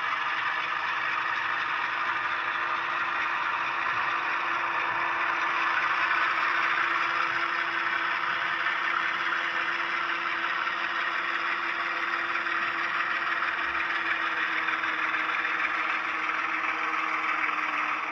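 HO-scale GE ES44AC model locomotive's LokSound 5 sound decoder playing its diesel engine sound through the small onboard speaker, running steadily at low throttle while the model crawls in reverse. A steady hum sits under the engine's hissing rumble, which swells slightly about six seconds in.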